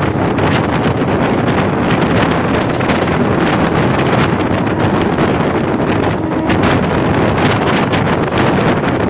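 Wind buffeting the microphone in loud, steady gusts over a low rumble.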